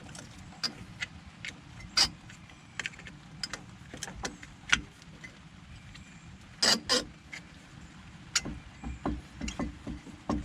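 Metal clicks and clanks of a disc brake pad being pried off the caliper: a scattered series of sharp knocks, the loudest about two seconds in, near five seconds and a quick pair around seven seconds.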